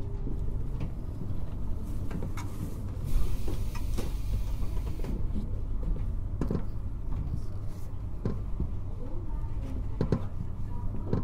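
Running noise inside a JR Hokkaido 721-series electric train: a steady low rumble of wheels on rail with scattered clicks and knocks, and a brief rush of hiss about three seconds in.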